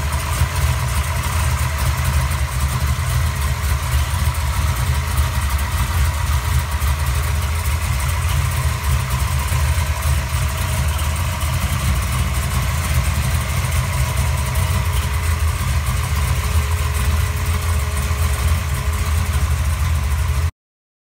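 A 650-horsepower 468 big-block Chevrolet V8 idling steadily, heard up close at the open hood.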